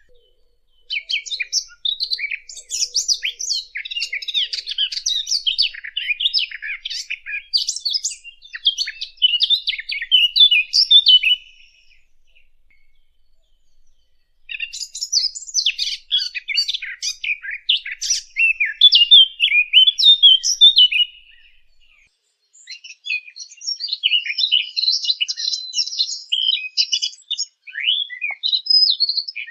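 Recorded song of the small songbird that Arab hunters call the fig bird (عصفور التين), played as a hunting lure: rapid, varied twittering and chirping in three long bouts, the first about ten seconds, then two of about seven seconds each, with short breaks between.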